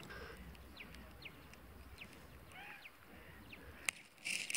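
Faint outdoor ambience with a few short, high, falling bird chirps, and a louder rasping noise starting just before the end.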